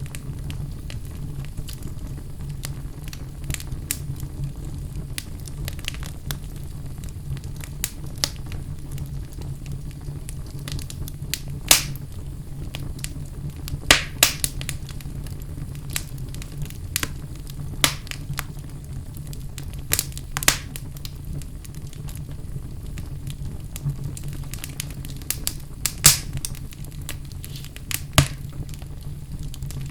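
Wood fire burning in a fireplace: a steady low rumble with scattered sharp crackles and pops, a few louder pops among them.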